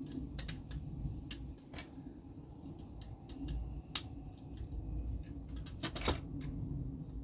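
Irregular small clicks and taps of hands handling small metal and plastic model-truck parts, such as suspension pieces, on a workbench, over a low steady hum.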